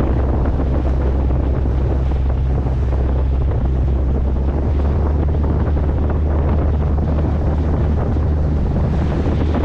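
Wind buffeting the microphone over the steady drone of a small motorboat under way through about one-foot waves, with water rushing along the hull.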